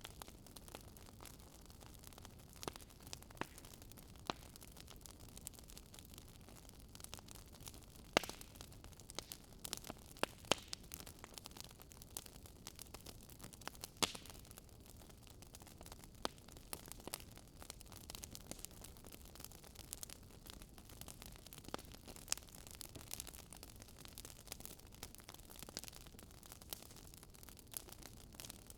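Wood fire in a fireplace crackling: irregular sharp snaps and pops, a few louder than the rest, over a faint steady rumble.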